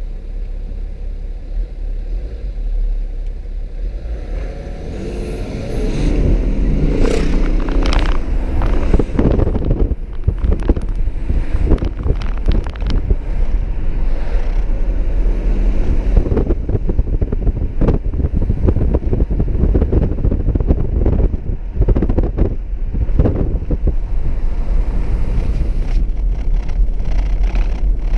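BMW X4 30d's six-cylinder diesel engine pulling under hard acceleration: a low rumble at first, then about five seconds in the engine note climbs and grows louder. After that, loud road and wind noise with frequent rustling and knocking runs on as the car goes at speed.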